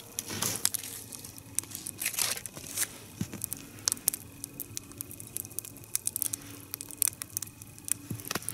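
Log fire crackling: a three-log nodya burning, with frequent irregular sharp pops and snaps from the burning wood.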